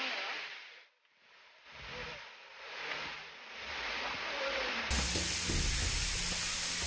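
Rushing water of a waterfall, a steady hiss-like rush that swells and dips, changing abruptly about five seconds in with more low rumble.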